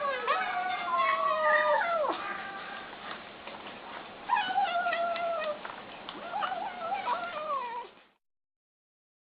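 Kittens crying out while eating: high, wavering, meow-like calls, about three long ones that slide down in pitch. The sound cuts off suddenly about eight seconds in.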